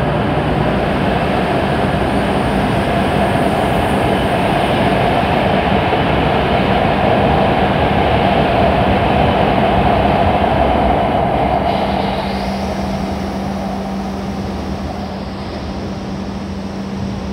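E7 series Shinkansen pulling out of the station and picking up speed as its cars rush past, a loud steady rushing of wheels and running gear. It fades after about twelve seconds as the last car leaves, and a steady low hum continues underneath.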